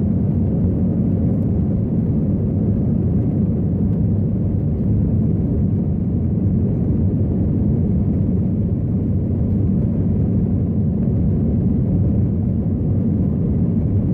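Airbus A321 cabin noise heard from a rear window seat during the climb after take-off: a steady, even rumble of the jet engines and rushing air.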